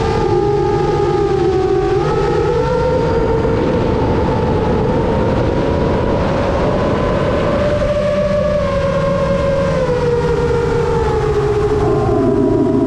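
Model airplane motor and propeller running in flight, heard on board over wind rush. The pitch climbs about two seconds in, holds, then sinks gradually from about eight seconds and drops again near the end as the throttle changes.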